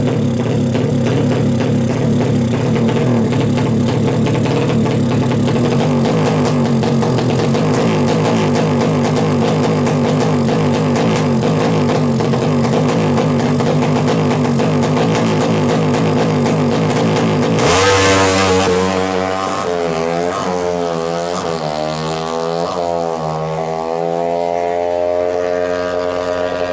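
Single-cylinder four-stroke engine of a Kawasaki KLX drag bike bored to 180cc, running at a steady high speed. About two-thirds through it suddenly gets louder, and the revs swing up and down several times, climbing before dropping off at the end.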